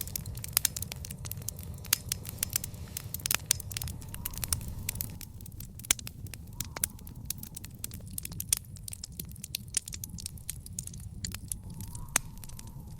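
Wood fire in an outdoor fire pit crackling, with many irregular sharp pops and snaps over a steady low rumble.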